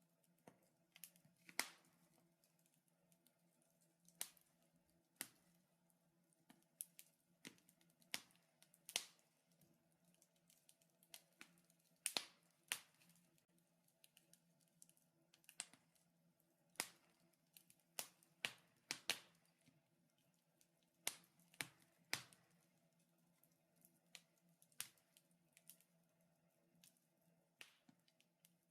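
Wood fire crackling: irregular sharp pops and snaps, some much louder than others, in clusters with short gaps between.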